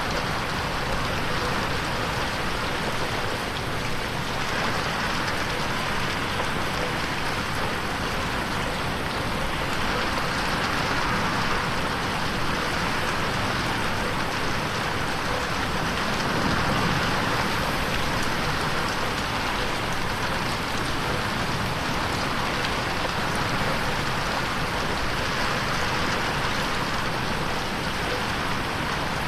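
Steady rain pattering on a window pane, a continuous even hiss of drops that swells and eases slightly every few seconds.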